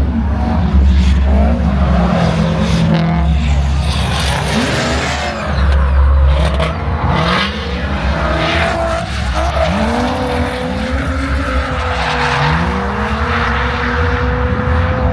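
A car drifting: its engine revs up and down again and again as the tyres squeal and skid, with a longer held rev in the last few seconds.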